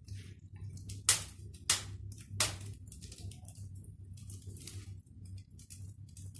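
Wood fire crackling in a newly built fireplace on its first firing, with irregular sharp pops. The three loudest come about a second, a second and a half, and two and a half seconds in.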